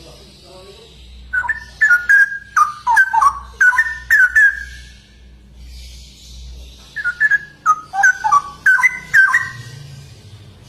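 Straw-headed bulbul (cucak rowo) singing loud, quick runs of whistled notes, in two bursts: one from about a second in and another from about seven seconds in, with a short pause between.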